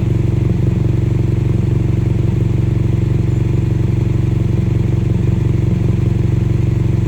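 BMW F800GS parallel-twin engine idling steadily through a Delkevic 9-inch oval slip-on exhaust with its baffle left in.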